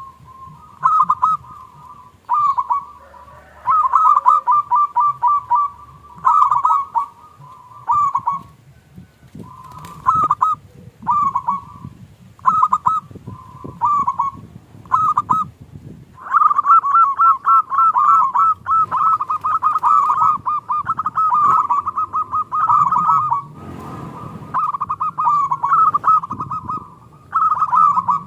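Zebra dove (perkutut) cooing: repeated phrases of quick, pulsed notes, short phrases at first and then a long, almost unbroken run of song past the middle.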